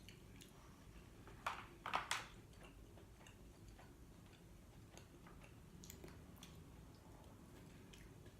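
Quiet eating sounds: a few short wet clicks and smacks about one and a half to two seconds in, then faint small ticks of chewing.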